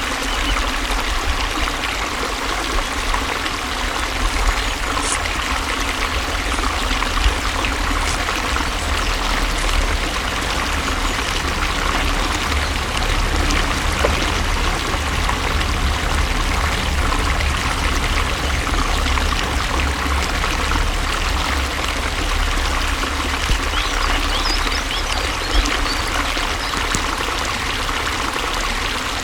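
Water flowing and trickling steadily, like a small stream, with a few faint splashy ticks.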